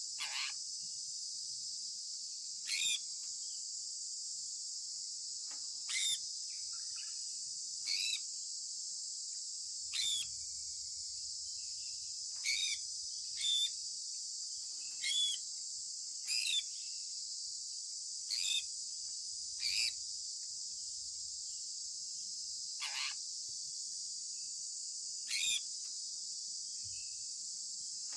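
Sun conure parrot giving short chirps, about a dozen, one every one to three seconds, each a quick downward sweep. Under them runs a steady high-pitched hiss.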